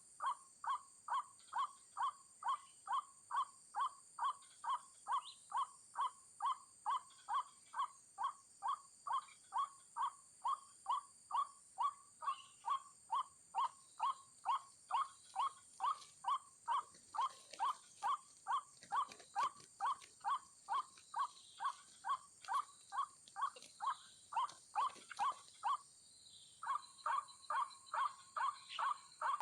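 White-breasted waterhen call: a single short note repeated evenly a little over twice a second, with a brief break near the end.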